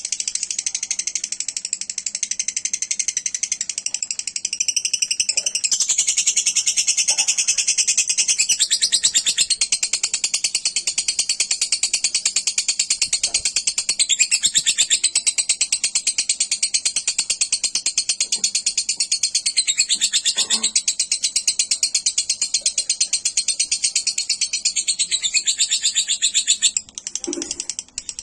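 Lovebird singing one long, unbroken, rapid high-pitched trill, the drawn-out "ngekek" chatter prized for its duration and clarity. It falters briefly near the end, then resumes.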